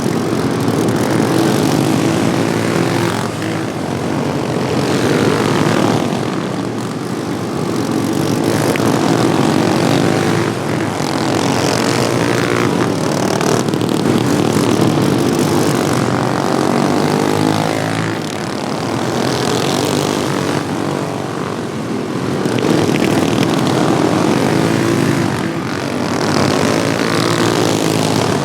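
Modified Wheel Horse racing lawnmowers' small engines running at speed around the track, a buzzing drone that swells and eases every few seconds as the mowers pass and come off the throttle.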